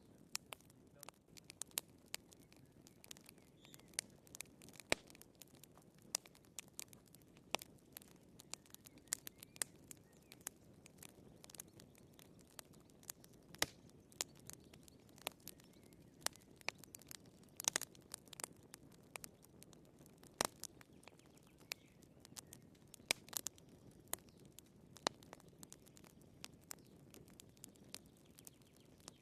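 Wood fire crackling in a fireplace: burning firewood giving off irregular sharp pops and snaps over a soft low hiss, with a few louder snaps here and there.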